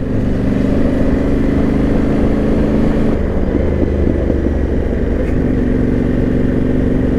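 Yamaha Ténéré 700's parallel-twin engine running steadily while the bike is ridden. The engine note breaks up about three seconds in and settles back to a steady pitch from about five seconds.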